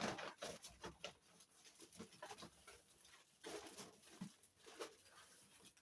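Faint rustling and light clicks of packaged groceries being handled, coming in short scattered bursts.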